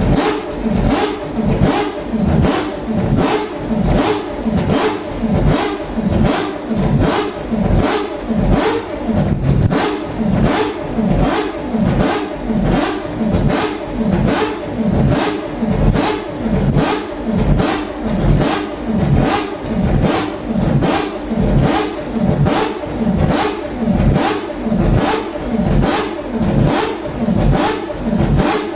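Mazda 787B's four-rotor R26B rotary engine revved in quick, regular throttle blips, about one and a half a second, each rising and dropping back.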